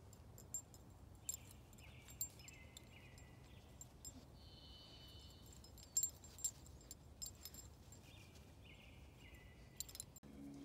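Faint birdsong: two short runs of clear notes stepping down in pitch, about a second in and again near the end, with a higher held note between them. Scattered light ticks and clicks sound over a quiet background.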